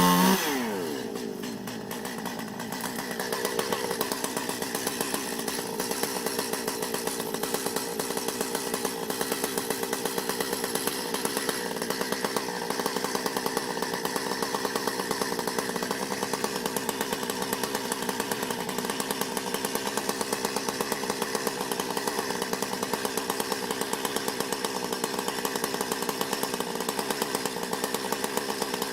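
A chainsaw comes off a high rev in the first half-second, its pitch falling, then runs steadily at low speed.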